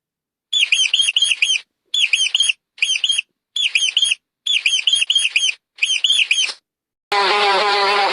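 A bird calling in six short series of quick, repeated arched chirps, each series about a second long with four or five notes. Near the end a different, steady sound with many stacked tones cuts in abruptly.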